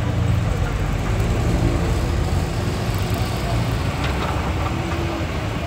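Diesel engine of a Hitachi hydraulic excavator running steadily, a continuous low rumble.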